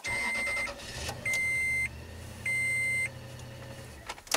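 2005 Toyota Tundra engine cranking and catching on a cold start, running for about four seconds and then cutting out, with a click just after. The truck's warning chime beeps steadily, on and off about once a second. The engine is struggling to keep running in the cold.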